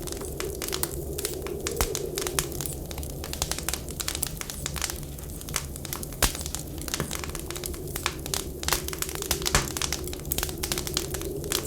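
Wood fire in a fireplace crackling, with irregular sharp pops, over a low steady rumble, while blizzard wind whistles outside in a wavering tone.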